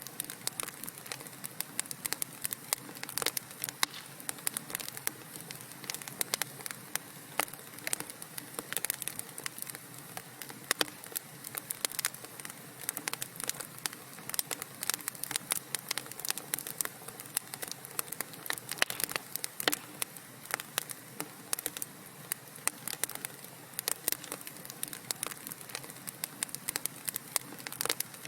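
Wood fire crackling in a fireplace: a soft steady hiss with many sharp, irregular pops and snaps, several a second.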